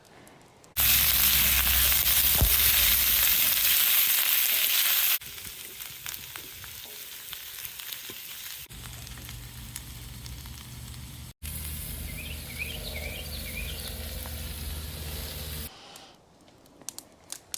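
Food sizzling and frying on a cast iron griddle plate, in several edited segments: loud and hissy for the first few seconds, then a quieter steady sizzle.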